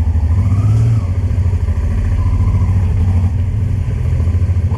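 Honda Transalp 600's V-twin engine running at low town speed, an even pulsing rumble.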